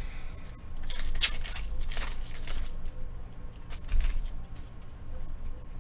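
Trading cards and pack wrappers being handled, with rustling and sliding in the first half and a single knock about four seconds in.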